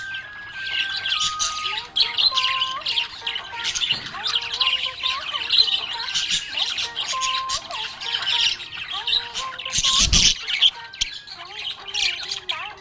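Budgerigars chirping and chattering busily without a break, with one brief loud thump about ten seconds in.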